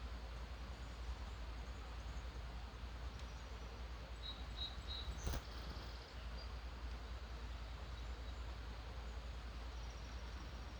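Faint, distant birdsong: a few short high chirps about four seconds in and again near the end, over a steady background hiss and low rumble. A single sharp click about halfway through.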